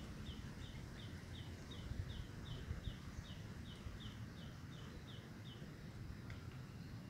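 A small bird calling faintly, repeating a short, high, slightly falling note about three times a second, stopping about six seconds in. A low rumble sits underneath.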